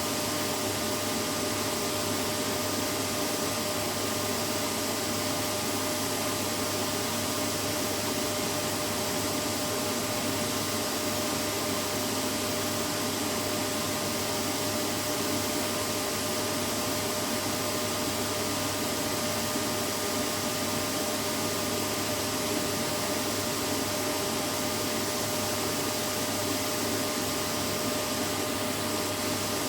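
Vacuum cleaner running steadily: an even rushing hiss with a constant motor hum and whine, no change in pitch or level.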